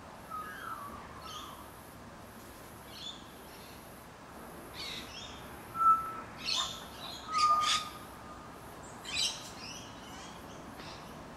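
Birds calling outdoors: scattered chirps and short whistled notes, with a louder cluster of calls a little past the middle.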